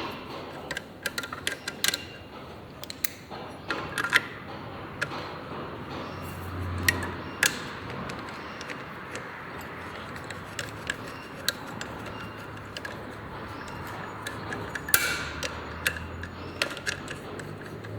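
Irregular clicks and light metallic taps of hand tools and engine parts being handled and set down.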